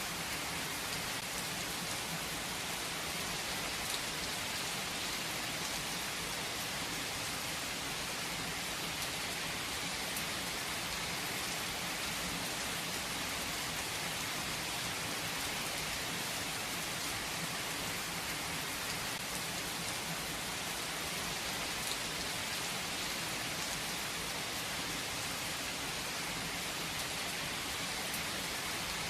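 Steady rain falling, an even hiss with occasional individual drops ticking.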